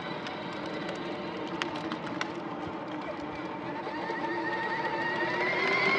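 Small ride-on vehicle's motor running with a steady whine that rises in pitch over the last couple of seconds, with a few light clicks.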